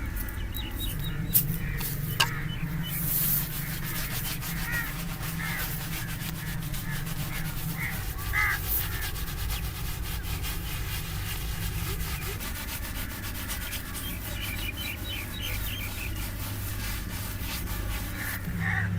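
Razor scraping across chest hair and skin in many quick, crisp strokes.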